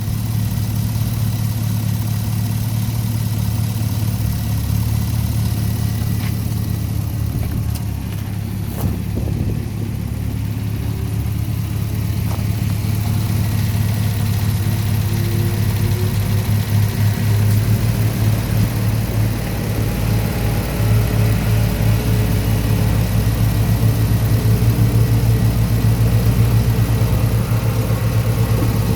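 2015 Chevrolet Camaro SS's 6.2-litre L99 V8 idling steadily, running a little louder in the second half.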